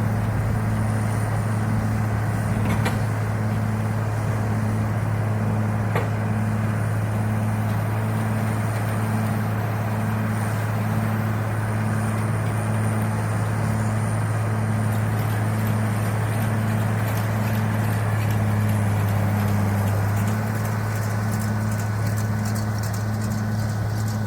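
White 2-135 tractor's diesel engine running steadily with a deep hum, pulsing about one and a half times a second.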